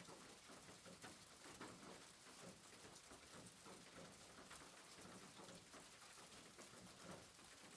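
Rain falling on a rooftop, faint steady patter of many small drops.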